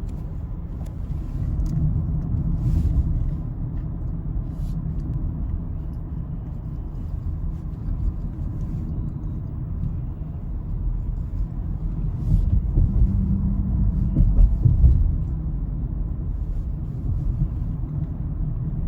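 Car on the move: a steady low road-and-engine rumble that swells about twelve to fifteen seconds in.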